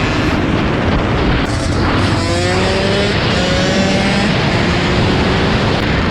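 Dirt bike engine accelerating, its pitch climbing in several rises that break off and start again as it shifts up, over a loud rushing noise.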